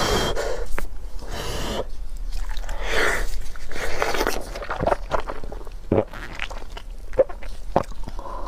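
A person eating dumplings: irregular chewing and mouth noises, with sharp wet clicks and short noisy breaths between bites.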